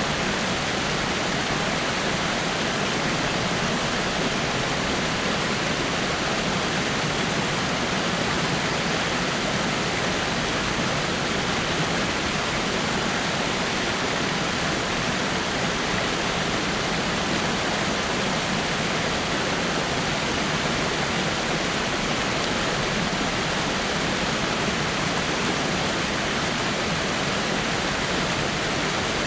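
Small waterfall spilling over rocks: a steady, even rush of falling water.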